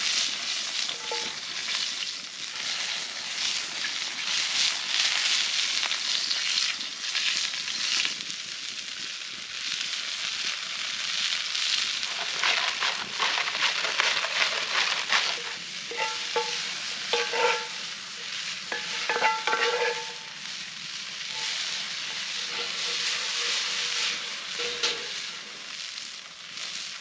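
Food frying and sizzling in a pan, with a utensil stirring and scraping against it now and then.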